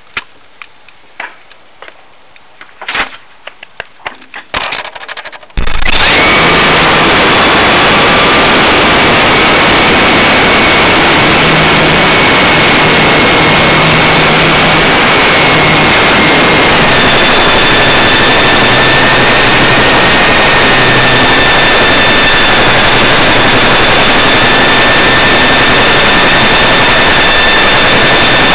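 A few light clicks, then about six seconds in a loud steady rushing noise cuts in suddenly: the air truck's propulsion fan spinning up, heard from the hood with air blasting over the onboard camera. A thin whine rides on top, holding its pitch and stepping lower once partway through.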